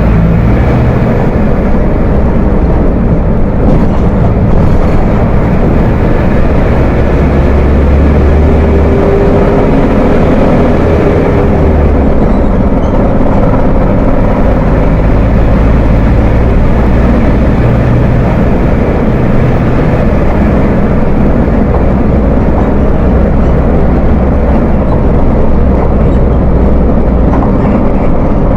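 Volkswagen 17.230 OD bus's diesel engine running steadily with a deep, thick growl ("ronco grosso"), the low rumble strengthening for a few seconds about a third of the way in.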